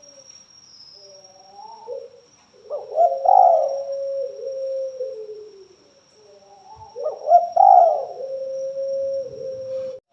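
Spotted dove (tekukur) cooing: two call phrases, each opening with a quick run of rising notes and ending in a long, level coo that steps down in pitch at the close. A faint steady high-pitched tone runs underneath.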